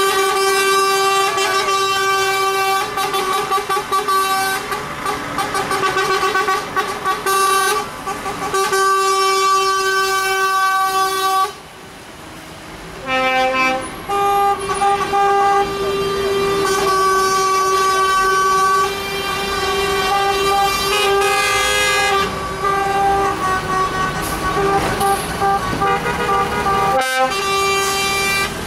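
Trucks' air horns sounding in long, held blasts, several horns one after another and overlapping. A brief lull about twelve seconds in.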